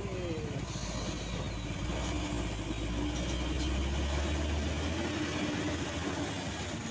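Truck engine passing close by, its low rumble growing louder to a peak partway through and then easing off.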